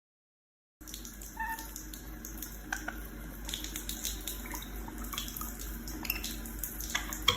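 Water running from a tap, with small splashes and clicks throughout. It starts abruptly just under a second in. There is a short chirp about a second and a half in.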